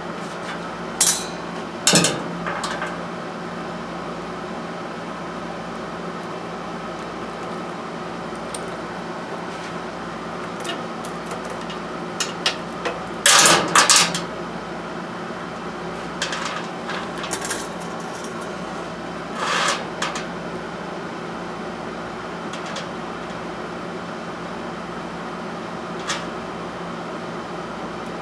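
Metal hand tools clinking and clanking against metal parts in scattered knocks, with the loudest cluster about halfway through, over a steady mechanical hum.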